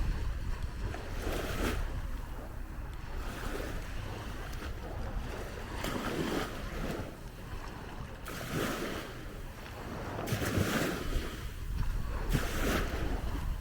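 Sea waves washing onto a beach in repeated surges of hiss, with wind rumbling on the microphone.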